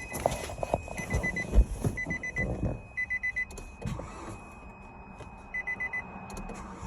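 An electronic beeper sounding quick high beeps in groups of four, four groups in all, with clattering knocks in the first half.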